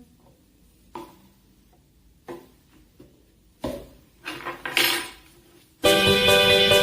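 Kitchenware being handled: a few separate knocks and clinks of dishes and utensils, the last ones close together. Background guitar music starts loudly near the end.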